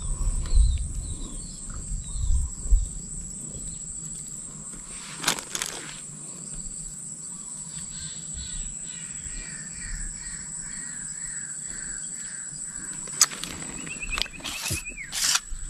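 Birds calling: a run of repeated short chirping notes, then a rapid trill near the end, over a steady high-pitched whine, with a few sharp knocks.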